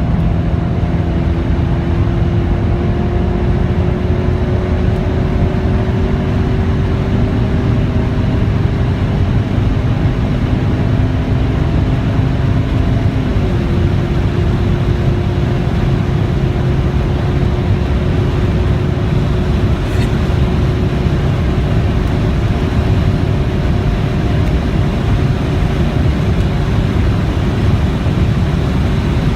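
Audi RS6 C5's 4.2-litre twin-turbo V8 under full-throttle acceleration at high speed, its note rising slowly in pitch with one upshift about 13 seconds in, over heavy wind and tyre noise.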